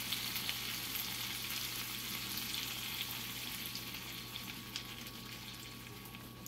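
Chicken, peppers and onions sizzling in a frying pan as half-and-half cream is poured in; the sizzle slowly dies down.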